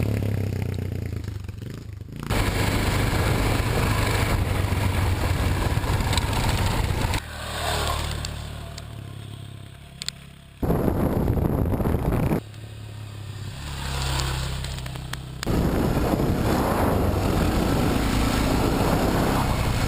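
Motorcycle engines running at steady road speed, with wind and road noise, in a string of short clips that change abruptly every few seconds. Twice the sound swells and fades as a bike passes.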